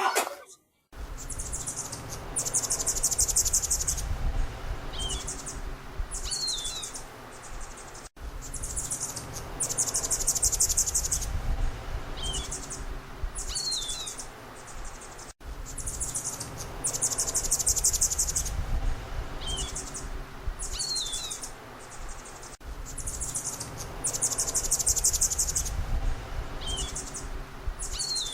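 A small songbird singing high, rapid trills about a second long with short chirps between them, over a low background rumble. The same seven-second recording plays about four times in a row, with a brief break at each restart.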